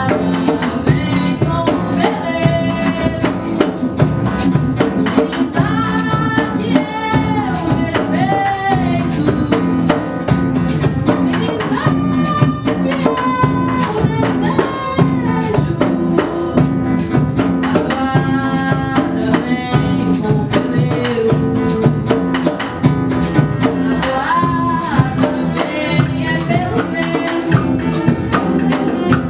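Small acoustic band playing live: sung vocal phrases over acoustic guitar and cello, with hand percussion such as shakers and tambourine keeping a steady, busy rhythm.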